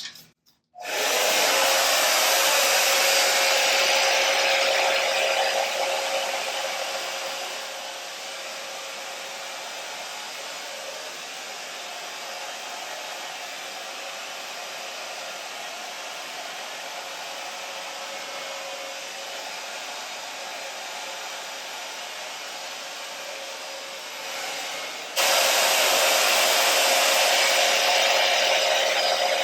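A small blow dryer running steadily, a rushing blow with a constant whine. It comes on about a second in, sinks to a lower, softer level after a few seconds, and jumps back to full loudness abruptly near the end.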